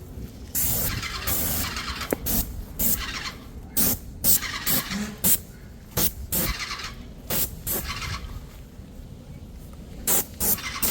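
Paint sprayer spraying a fence in short bursts: repeated bursts of hiss a fraction of a second to about a second long, a longer one near the start and a quick pair near the end.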